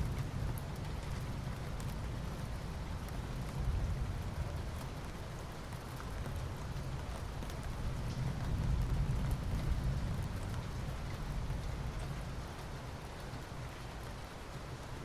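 Soft rain falling steadily on asphalt, an even hiss of fine drops with a low rumble underneath that swells twice.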